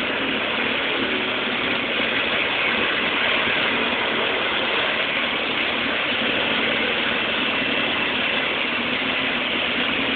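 Construction compactor running continuously: a loud, steady mechanical rattle over engine noise, the vibration that is shaking the nearby building.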